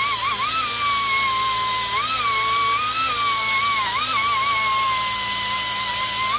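Air-powered angle grinder with a thin cut-off disc running at speed against corroded metal: a loud, steady high whine over a hiss. The pitch dips briefly several times as the disc is pressed into the rust.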